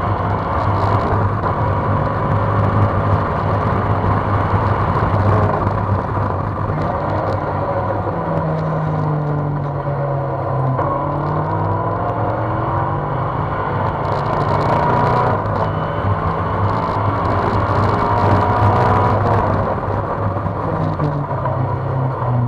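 Open-cockpit track car's engine heard from the cockpit at speed on a circuit, running hard with the engine note falling as it slows for a corner about ten seconds in and then rising again as it accelerates away.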